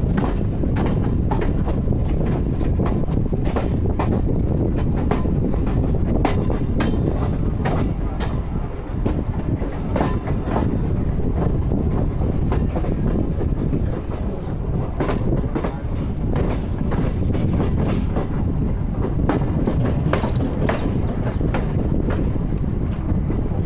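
Passenger train running on the rails, heard from aboard: a steady rumble of wheels on track with frequent sharp clicks as the wheels pass over rail joints.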